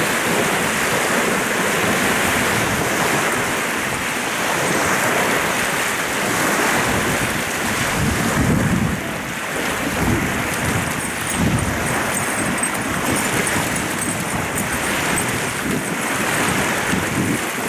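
Wind-driven waves washing onto a lakeshore, a steady rushing wash, with gusts of wind buffeting the microphone in low rumbles several times.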